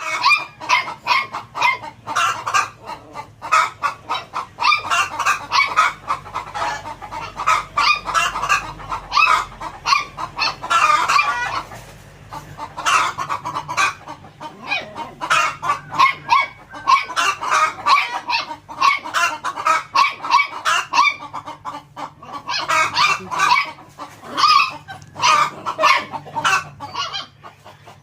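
Hen clucking in quick, repeated calls, with a brief lull about twelve seconds in.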